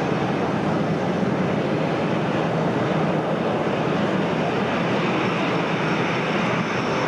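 Airliner jet engines running, a loud, steady rush of noise with a faint high whine coming in about halfway through.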